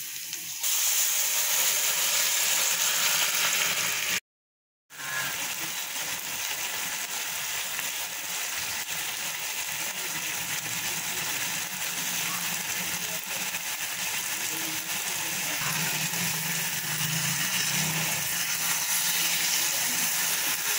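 Mutton pieces frying in hot oil in a pan, a steady sizzle. The sound cuts out completely for about half a second around four seconds in, then the sizzle resumes.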